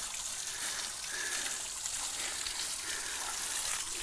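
Small waterfall splashing and trickling: a steady, even rush of falling water.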